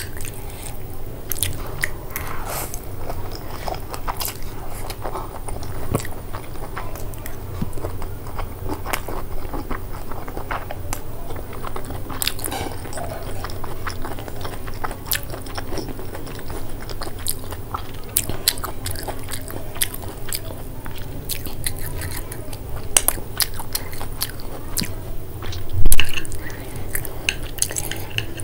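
Close-miked chewing of black bean noodles, with many small wet clicks from the mouth. A single loud low thump comes near the end.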